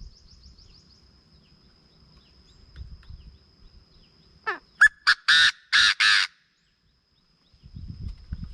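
Chinese francolin calling: a short falling note, then a fast run of loud, harsh notes, the last ones longest, over about a second and a half. A faint, steady, high-pitched whine runs underneath.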